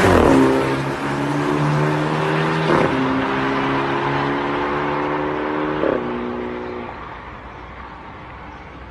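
BMW X3/X4 turbocharged engine through a Top Speed Pro1 adaptive valve exhaust, accelerating hard through the gears, with three upshifts, each a sudden drop in pitch, near the start, about three seconds in and about six seconds in. The exhaust note then fades away about seven seconds in.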